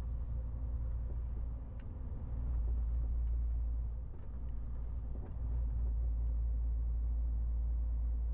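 MAN TGX 18.470 truck's straight-six diesel running under way, a steady low drone with road rumble. A few faint clicks sound over it.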